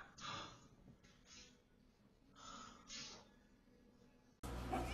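Near silence: faint room tone with a few faint, brief soft sounds. A low steady hum starts near the end.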